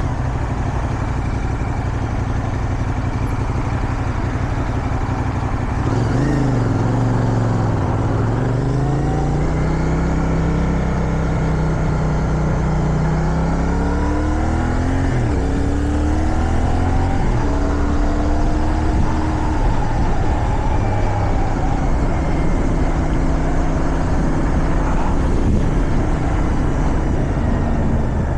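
Motorcycle engine, likely a CFMoto 450SR, running under way with wind rushing over the microphone. About six seconds in, the engine note dips, then climbs as the bike accelerates. Around fifteen seconds it breaks off at a gear change and climbs again.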